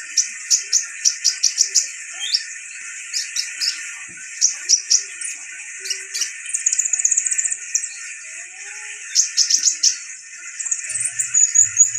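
A sunbird of the kind Indonesian bird-keepers call 'kolibri ninja' singing: quick series of sharp, very high-pitched chirps, broken by a fast rattling trill in the middle and another near the end. A steady background hiss runs underneath.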